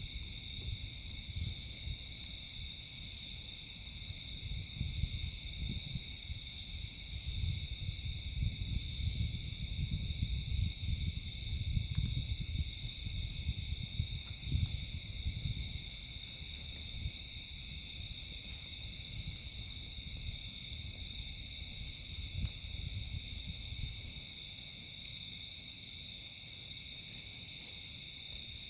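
A steady chorus of night insects such as crickets, with a higher buzz that comes and goes every couple of seconds. Underneath is a low, uneven rumble that swells and fades, with a few faint pops from the campfire.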